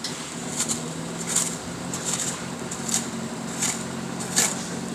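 A hand tool scraping and loosening softened, infrared-heated asphalt in short strokes about every 0.7 s, over a steady low machine hum.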